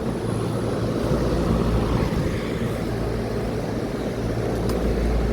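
Outdoor air-conditioner condenser unit running in cooling mode: a steady hum from the compressor under the whirr of the condenser fan.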